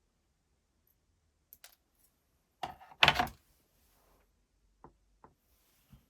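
Hard objects being handled on a bench: scattered clicks and knocks, with a louder clatter about three seconds in and a few sharp ticks near the end.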